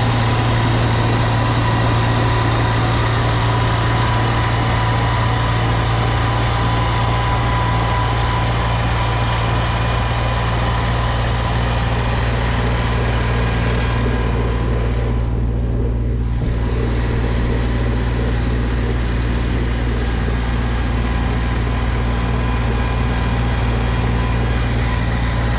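A small engine running steadily at an even speed, with a constant low hum throughout.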